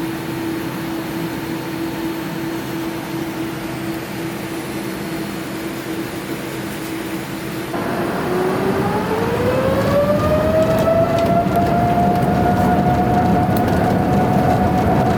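Boeing 787-9's Rolls-Royce Trent 1000 turbofan engines, heard from inside the cabin. They hum steadily with a held tone, then about eight seconds in spool up with a rising whine that levels off at high thrust, as when the aircraft sets takeoff power.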